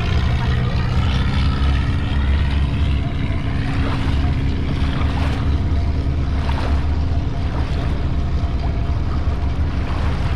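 Long-tail boat's engine running steadily, with water rushing and splashing against the hull.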